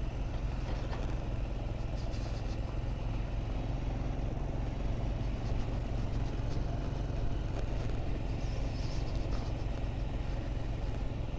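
Motorcycle engine running at a steady pace while riding, with a constant background of road and wind noise.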